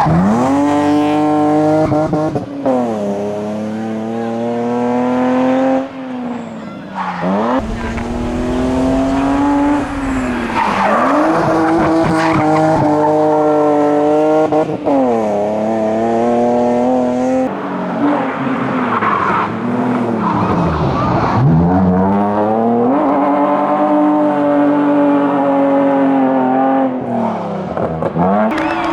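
Racing BMW E36 and then BMW E46 hillclimb cars accelerating hard at full throttle, each engine's pitch climbing and dropping sharply at every gearchange, about every two to three seconds. The first car cuts off abruptly about two-thirds of the way through and the second takes over.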